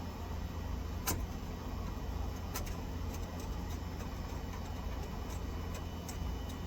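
Scattered sharp clicks and taps, the loudest about a second in, over a steady low hum.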